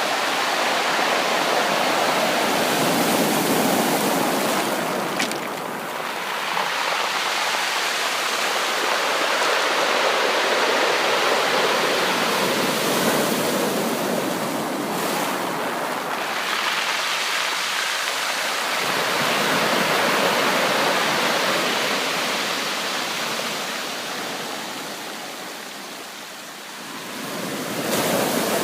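Ocean surf: waves rolling in and washing back in slow swells, a larger wave surging near the end.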